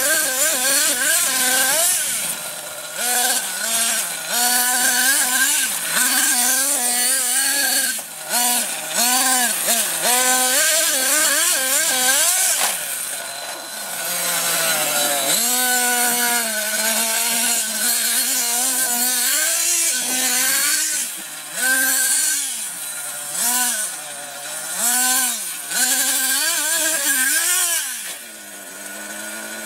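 Small nitro engine of an RC monster truck being driven hard, its pitch rising and falling over and over as the throttle is worked on and off. It drops to a lower, steadier note near the end.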